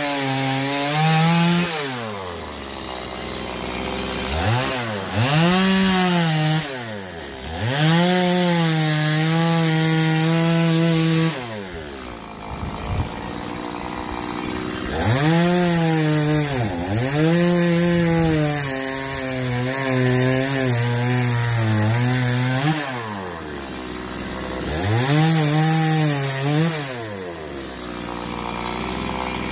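Stihl 180 two-stroke chainsaw cutting eucalyptus logs: the engine revs up and holds high and steady while the chain is in the wood, then drops back to idle between cuts, several times over.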